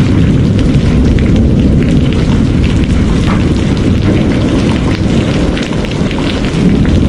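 Heavy rain falling steadily, with a deep continuous rumble of thunder underneath and a dense patter of drops over it.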